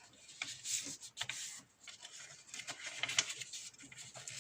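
A sheet of paper rustling and scraping as it is folded and its creases pressed down, in a series of short strokes.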